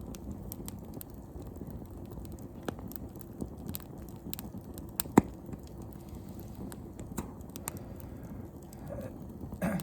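Wood fire crackling, with scattered sharp pops over a low steady rumble of burning, one pop much louder than the rest about five seconds in.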